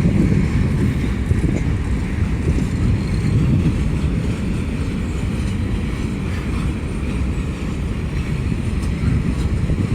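CSX freight train's cars rolling past slowly, a steady low rumble of wheels on rail.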